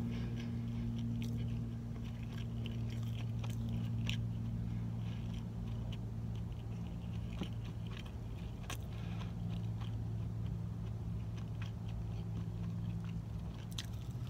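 Close-up chewing of a bacon and egg breakfast sandwich: soft crunches and wet mouth clicks, with a fresh bite taken near the end. A steady low hum runs underneath.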